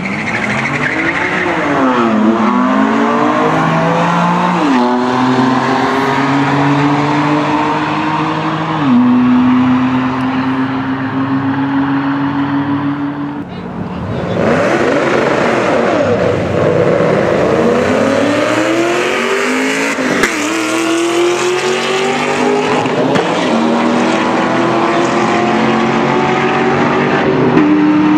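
A BMW and a Mustang at the drag-strip start line. At first the engines rev and are held at steady raised revs while staging. About halfway through both launch and accelerate hard down the strip, engine pitch climbing and dropping back at each upshift.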